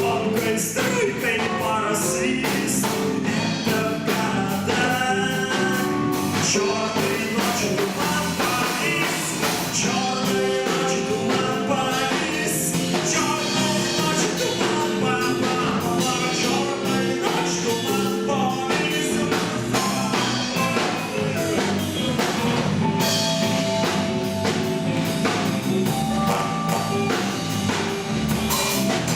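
Rock band playing: drum kit, guitars and singing.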